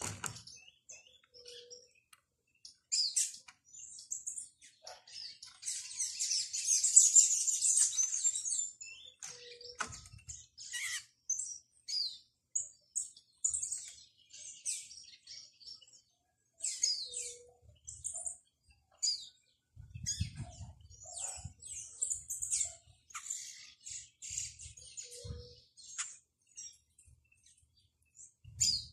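Small birds chirping: short, high calls scattered throughout, with a dense burst of twittering about six to eight seconds in. A few soft low thumps come around twenty seconds in.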